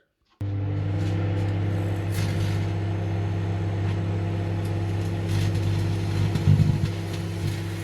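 Microwave oven switching on and running with a steady electrical hum. About six and a half seconds in comes a brief louder burst of buzzing, as the halved grapes inside spark into plasma.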